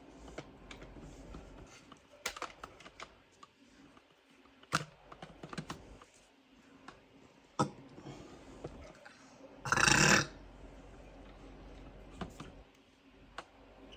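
Light, irregular clicks and taps, with one short, loud rustling burst about ten seconds in.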